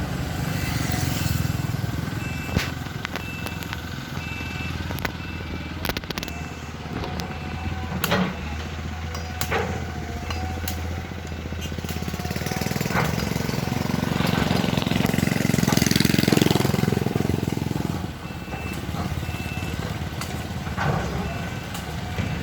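Heavy diesel engine of a CAT excavator running under load, rising to a louder stretch in the second half, with sharp knocks scattered through it. A high beeping warning alarm sounds on and off.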